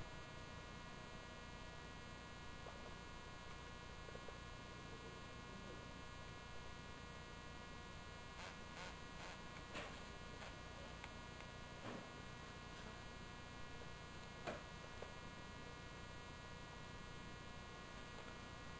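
Faint steady electrical hum with a buzzy edge, broken by a few soft clicks in the middle stretch.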